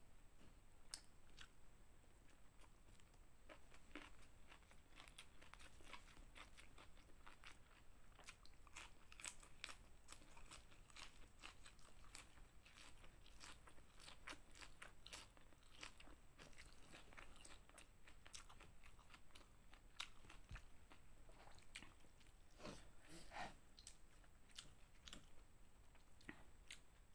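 Faint close-up crunching and chewing of raw leafy greens and rice: a dense run of small crisp crunches.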